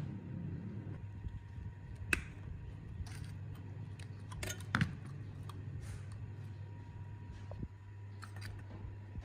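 Scattered light clicks and knocks of parts being handled in a workshop, the sharpest about two seconds in and just before the five-second mark, over a steady low hum.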